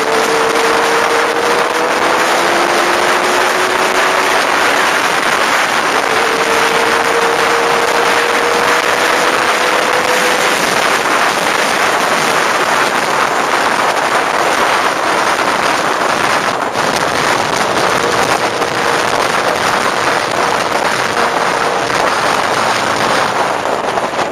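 Motorcycle riding at speed: a steady rush of wind noise with the engine note underneath, its pitch climbing slowly at times.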